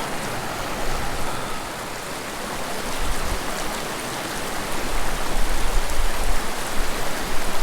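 Small mountain creek rushing over rocks: a steady hiss of flowing water, with a low rumble that grows stronger about halfway through.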